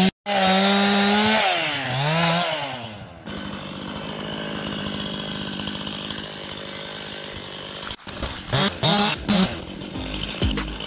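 Chainsaw engine revving up and down as it cuts through a fallen tree. After about three seconds it drops to a quieter, steadier sound.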